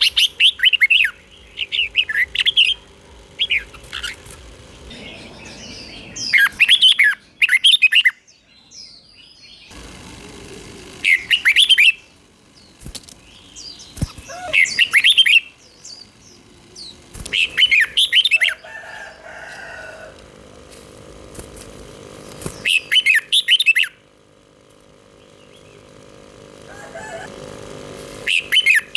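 Red-whiskered bulbul singing short phrases of quick, liquid notes. About nine phrases come, each lasting about a second, with pauses of a few seconds between them.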